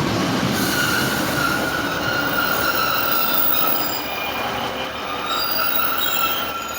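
Class 156 diesel multiple unit drawing into the platform, with a rumble under several high squealing tones that waver and come and go as the train slows.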